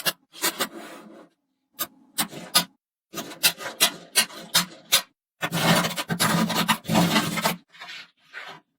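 Magnetic balls clicking together in quick runs and scraping or rattling against one another as they are pushed into place, with a longer rubbing stretch past the middle.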